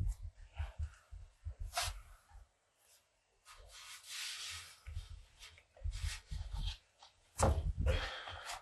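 Irregular scraping and rubbing as biscuit-fired pottery jars are shifted and lifted out of a wood-fired kiln. Short and longer scrapes come with dull low thuds, the loudest about three quarters of the way through.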